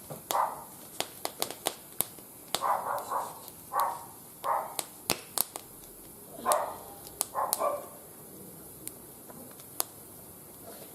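Wood fire burning in a barbecue grill, crackling with irregular sharp pops, with a few short louder bursts of another sound between them.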